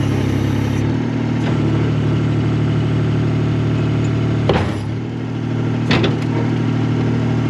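Skid steer engine idling steadily, with a sharp knock about four and a half seconds in and another about six seconds in.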